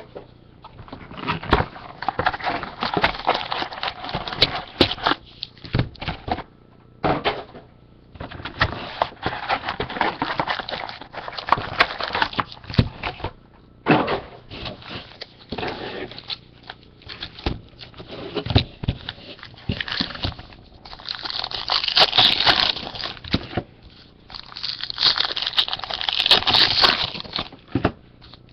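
Trading card boxes and packs being opened and handled: crinkling and tearing of wrappers, with clicks and rustles of cards and cardboard in irregular bursts.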